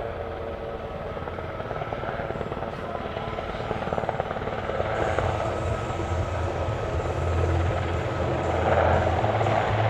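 Twin-turbine Super Puma helicopter flying toward the listener, its turbine whine and rotor beat growing steadily louder, with a heavier low rotor rumble from about five seconds in.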